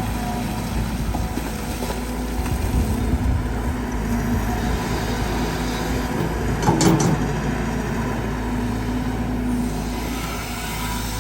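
Caterpillar 320GX excavator's C4.4 four-cylinder turbo-diesel running steadily under hydraulic load while digging hard laterite soil. A brief, louder, harsher burst comes about seven seconds in.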